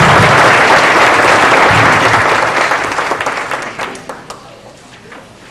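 Audience applauding, loud at first, then thinning to a few scattered claps and dying away about four seconds in.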